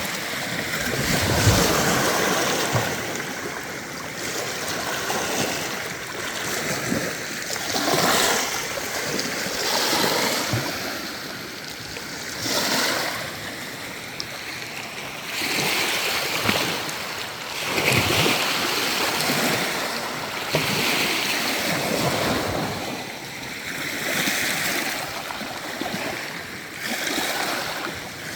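Small waves lapping at a lake shore: a soft wash of water that swells and falls back every two seconds or so.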